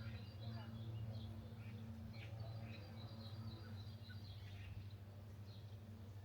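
Birds chirping and calling over a faint, steady low hum.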